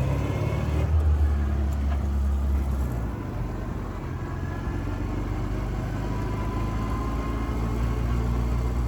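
1926 Voisin's sleeve-valve engine running while the car is driven, a steady low drone whose note shifts about a second in and again around three seconds in. A faint rising whine comes in during the second half.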